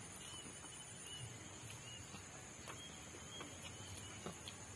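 Faint chewing and lip smacks of people eating with their hands, a scatter of short wet clicks, with a few faint high chirps in the background.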